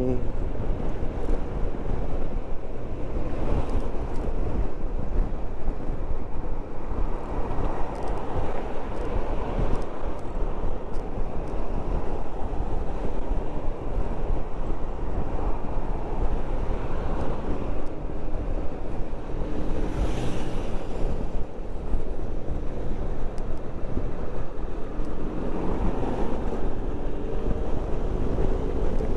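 Wind buffeting a microphone inside a motorcycle rider's helmet while riding, with engine and road noise underneath: a steady, heavy rush of wind noise.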